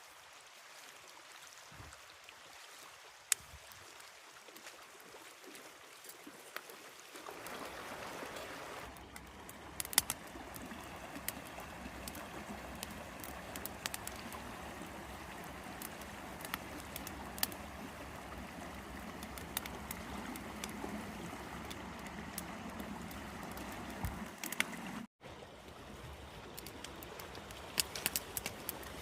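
River water flowing steadily, louder and fuller from about seven seconds in, with scattered sharp clicks over it.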